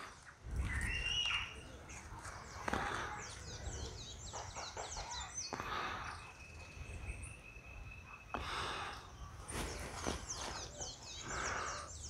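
Wild birds calling: two quick runs of high chirping notes, and in the middle a single steady high whistle held for about two seconds, over faint rustling and low rumble.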